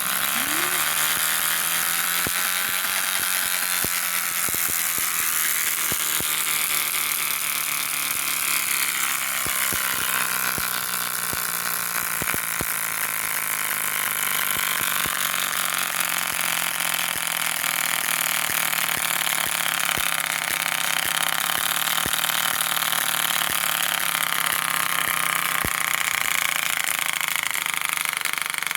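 A 1998 Hardee's Woody Woodpecker bike clicker toy on a turning bike wheel, clicking so fast against the spokes that it makes a continuous buzz like a small engine. The pitch rises over the first few seconds as the wheel speeds up, then holds steady.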